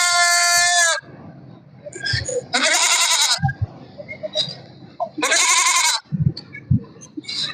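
Kittens meowing: three loud, high-pitched meows. The first is long and drawn out and ends about a second in; shorter ones follow around three seconds and five and a half seconds in.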